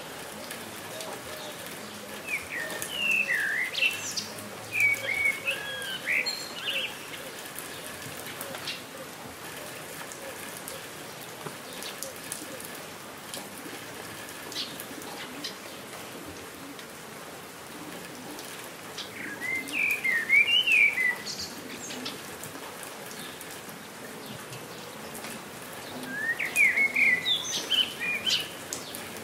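Steady rain falling, with scattered drops ticking, and a songbird singing quick warbled phrases three times: near the start, in the middle and near the end.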